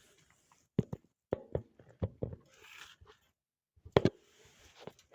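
About eight short, sharp knocks and clicks from handling a measuring tool against the stove while measuring its height, with the loudest pair about four seconds in and a faint rustle between them.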